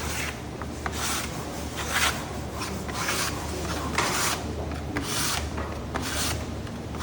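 Rhythmic scraping strokes of a spreader drawing solvent-based contact cement across a wooden board to prepare it for veneering, about one stroke a second.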